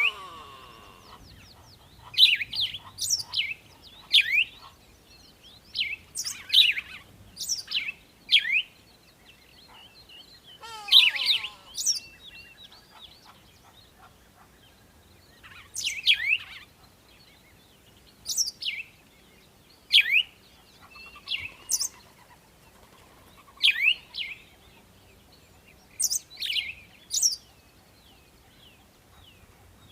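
A bird calling with short, sharp chirps that sweep steeply down in pitch, singly or in quick runs of two or three, every second or two.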